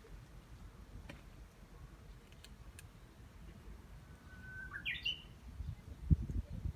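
A single bird call about four and a half seconds in: a short held whistle that then rises quickly in pitch. A few faint clicks come earlier, and low thumps near the end, one of them sharp.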